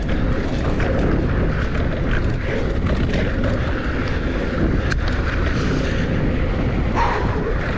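Mountain bike riding quickly downhill on a dirt trail: tyres rolling and crunching over hard-packed dirt and rocks, the bike rattling, with a steady low rumble of wind buffeting the microphone.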